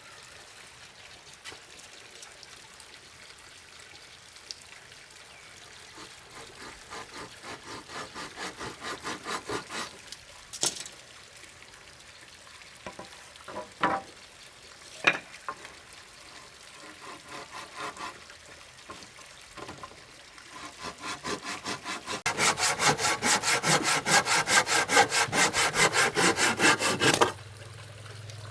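Hand saw cutting wood in quick, even strokes, in two spells, the second louder and stopping abruptly near the end. A few sharp knocks come between the spells.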